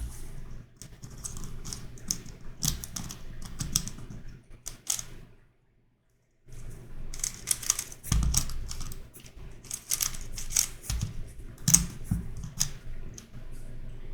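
Plastic clicking and clacking of a YuXin Corner Helicopter 2x2 puzzle being turned by hand, in quick runs of clicks, with a pause of about a second from just after five seconds in.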